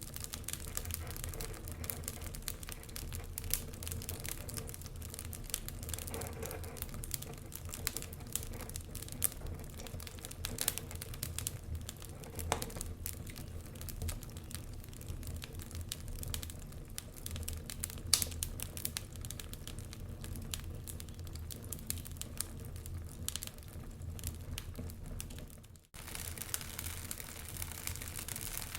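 Wood fire crackling: many small irregular pops and snaps over a steady low rumble. The sound drops out for a split second about 26 seconds in.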